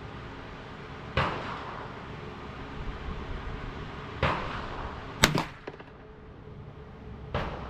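Gunshots fired at a range: four sharp cracks at uneven spacing, each with a short echo tail, the loudest a quick double crack just after five seconds.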